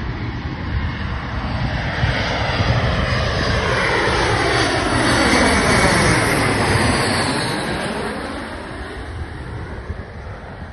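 Embraer E175 regional jet's twin turbofan engines passing overhead on approach to land: the engine noise builds, peaks about halfway through with a falling sweep in pitch, then fades away.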